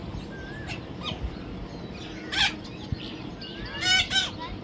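Parrot calling: short chirps, then a harsh squawk about halfway in and two louder squawks in quick succession near the end.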